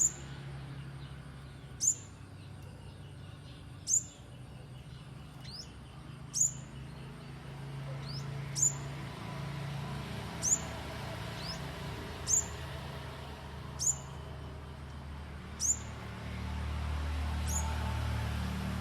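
A small bird calling with single sharp, very high chips about every two seconds, with a few fainter rising notes in between, over a low steady background hum.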